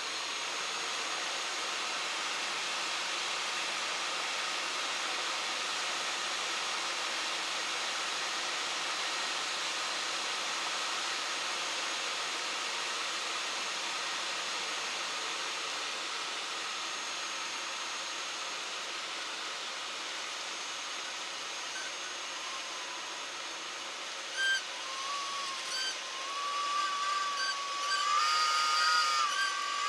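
Steady cabin noise of a Cessna 172 Skyhawk rolling out after touchdown, heard as an even hiss through the headset intercom. About 25 seconds in, a wavering high tone and a few clicks come in and grow louder.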